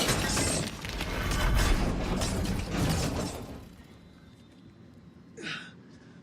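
Film sound effects of a crash: loud breaking and shattering over a low rumble, which dies away after about three and a half seconds, followed by one short, quieter scrape near the end.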